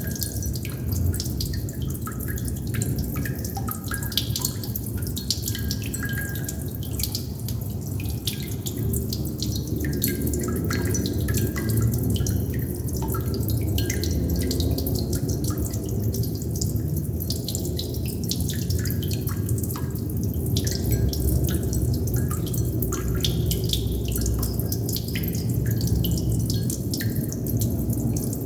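Water droplets dripping, many small irregular drip ticks in quick succession over a steady low rumble.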